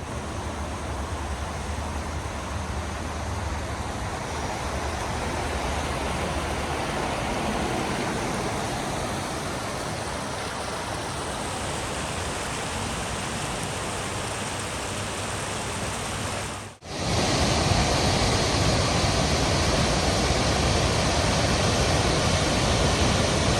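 Rushing water, a steady noise with no tone or rhythm in it. It cuts out briefly about 17 seconds in and comes back louder.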